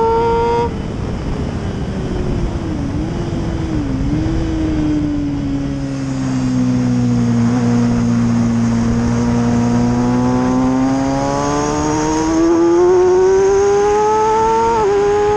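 Motorcycle engine heard on board with wind rush. The revs fall as it slows, with two quick downshifts, hold low and steady through a long leaned corner, then climb under acceleration with a gear change near the end.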